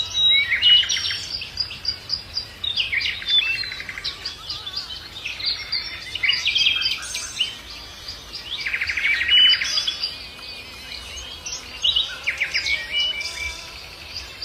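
Several songbirds singing and calling together, with short fast trills breaking out every few seconds.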